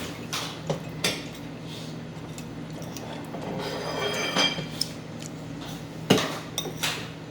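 Spoon and fork clinking and scraping against a plate and bowl during a meal: a few sharp clicks about a second in and again near the end, with a ringing scrape in the middle.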